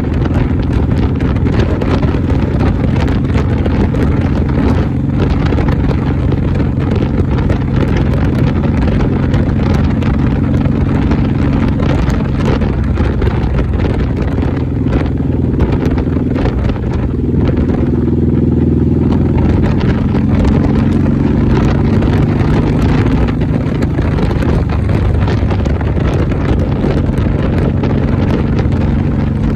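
Motorcycle engine running steadily while riding, with wind rushing over the microphone; the engine note shifts a little about two-thirds of the way through.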